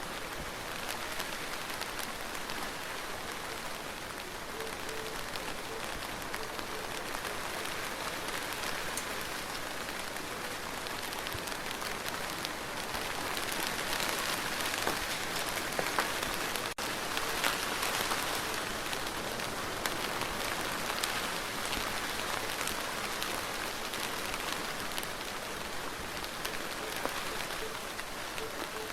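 Steady rain falling, an even hiss of rain dotted with many individual drop ticks. It grows a little heavier around the middle, with a momentary gap in the sound about two-thirds of the way through.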